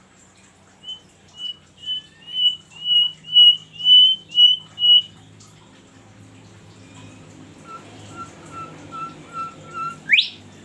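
A songbird whistling a run of about eight short, clear notes, roughly two a second and growing louder. A few seconds later comes a softer run of lower notes, ending in one quick rising whistle.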